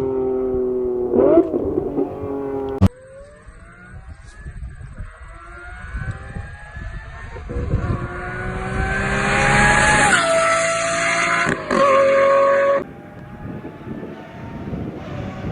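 Lamborghini Murciélago LP640 V12 through straight-pipe exhaust: first a steady engine note, then after a sudden cut a long hard acceleration whose pitch and loudness climb steadily. At its loudest the pitch steps down sharply twice, then another clip begins rising again near the end.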